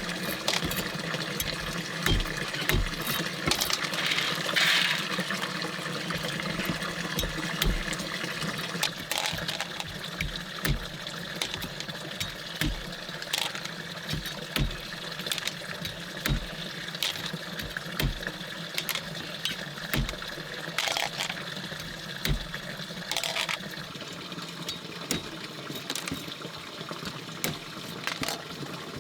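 Water running and splashing, with frequent small clicks and knocks scattered through it.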